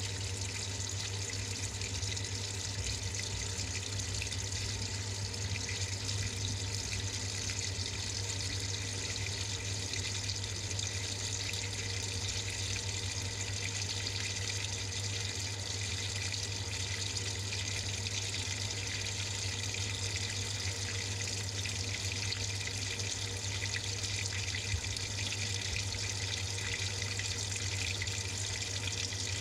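Samsung 6.5 kg top-load washing machine filling with water, heard from inside the drum: a steady, even rush of running water with a low hum under it.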